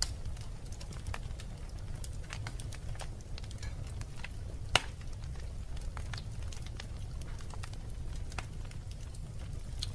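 Wood fire burning in a fireplace, with a steady low rumble of flames under scattered sharp crackles and pops; one pop a little before the middle is much louder than the rest.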